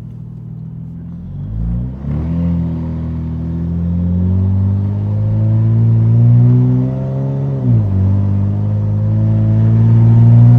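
Infiniti Q60's twin-turbo V6 accelerating hard. It climbs through the revs, drops sharply on a gear change a little over 7 seconds in, then pulls up through the revs again.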